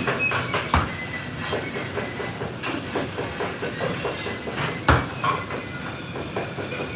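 Irregular light clicks and knocks over a steady hiss, with two louder knocks, about a second in and about five seconds in.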